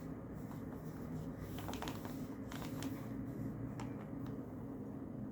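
Steady low room rumble with a few light ticks and taps scattered through it, typical of a desk study session with a pen and papers.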